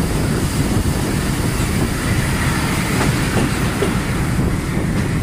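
Train hauled by a Sri Lanka Railways M8 diesel-electric locomotive running steadily along the track, heard from the locomotive: a continuous low rumble of engine and wheels on the rails.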